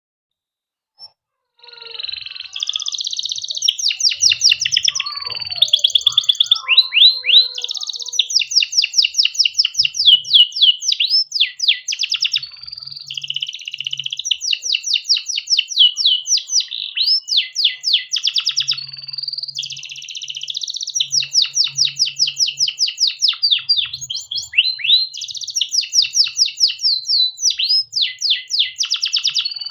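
Domestic canary singing a long, unbroken song of fast rolling trills and whistled phrases, starting about a second and a half in.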